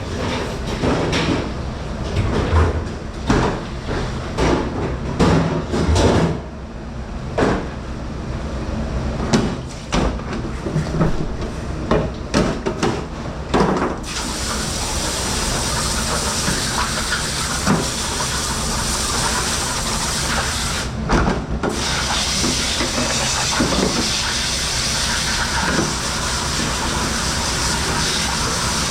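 Dishes and utensils clattering and knocking in a commercial dish pit for the first half, then a steady rush of spraying water takes over from about halfway.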